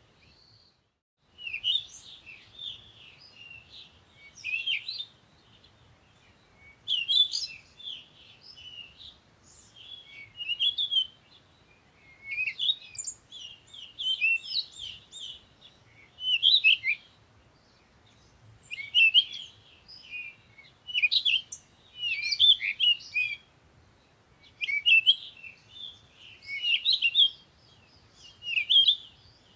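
Songbirds chirping and twittering in quick, high-pitched phrases, one burst every second or two, after a brief pause at the start.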